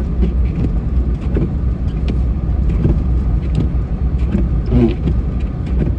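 Plow truck driving along, its engine and road noise making a steady low rumble.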